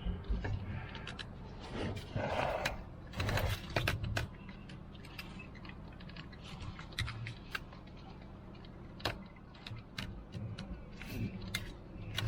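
Scattered metal clicks and knocks of hand tools working at a hydraulic oil filter that is stuck fast, with a short scraping rustle about two seconds in.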